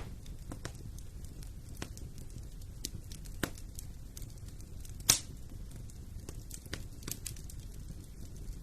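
Fire in a fireplace crackling: irregular sharp pops scattered over a low steady rumble of the flames, with one louder pop about five seconds in.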